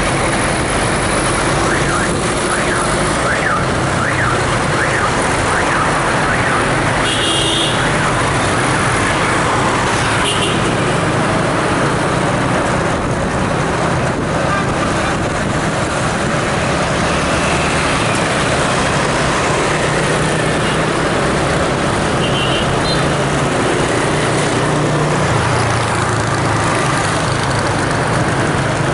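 Steady road traffic noise, with a repeating up-and-down warbling tone for a few seconds near the start.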